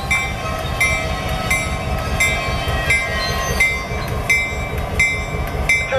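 CSX diesel freight locomotive rumbling low as it pulls slowly past, with a bell ringing steadily about three times every two seconds.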